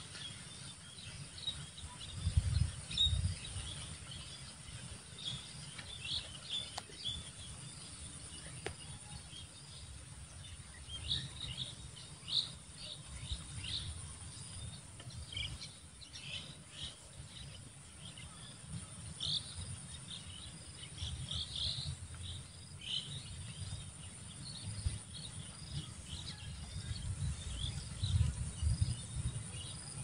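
Small birds chirping in short, scattered calls over a steady faint insect hum, with irregular bursts of low rumble, loudest about two seconds in and again near the end.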